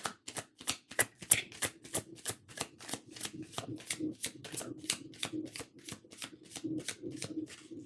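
Tarot cards being shuffled by hand: a steady run of crisp card-on-card flicks, about five a second.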